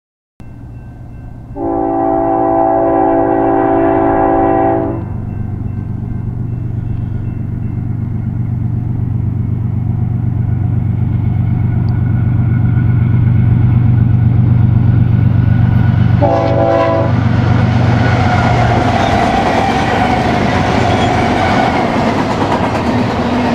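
BNSF diesel freight locomotive approaching with its engine running, sounding its air horn (several tones at once) in one long blast and, about sixteen seconds in, one short blast. After that the engine drone gives way to the rising rush and rumble of the train's cars rolling past.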